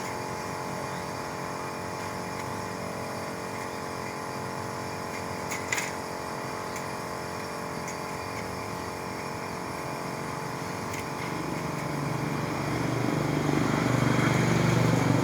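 A steady engine-like hum that grows louder in the last few seconds, with a single short click about six seconds in.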